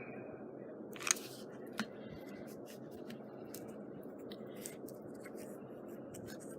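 Small handling sounds of scrapbook pieces being pressed and tucked into place: a sharp click about a second in, another near two seconds, and a few faint ticks over a steady low room hum.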